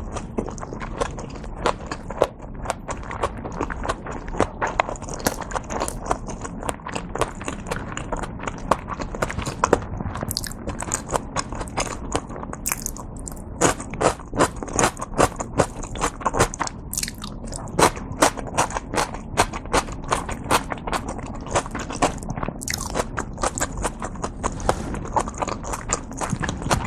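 Close pin-mic chewing of dumplings: wet mouth sounds with many quick, sharp clicks, thickest in the middle.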